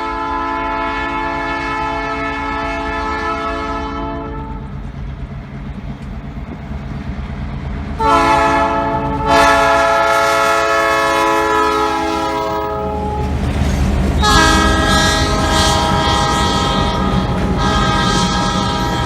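Freight locomotive's air horn sounding a series of long blasts, several tones at once, over the low rumble of the approaching train, which grows louder in the later part.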